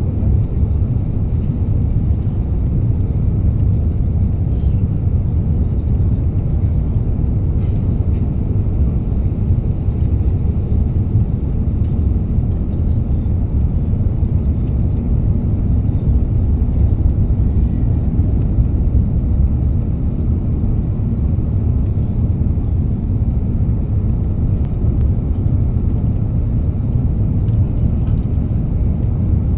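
Steady, low cabin rumble of an Airbus A350 in flight, the engine and airflow noise heard from a passenger seat inside the cabin.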